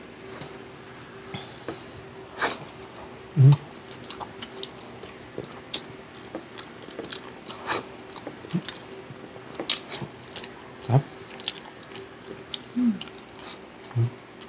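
Close-miked eating: chewing and lip-smacking with many small wet mouth clicks, a few brief low hums scattered among them.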